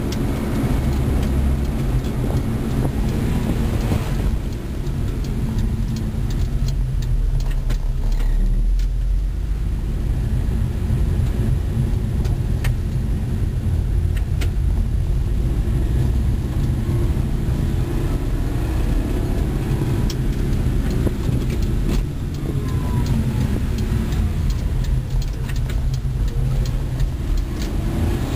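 1991 Suzuki Carry 4x4 kei truck driving, its small three-cylinder engine running with a steady low rumble from the road.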